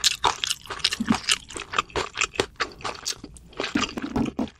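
Close-miked chewing of crunchy food: a fast, irregular run of wet crunches.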